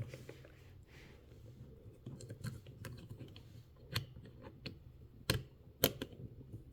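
Small craft pieces handled and fitted together by hand: light rustling with scattered small clicks and taps, and three sharper clicks in the second half.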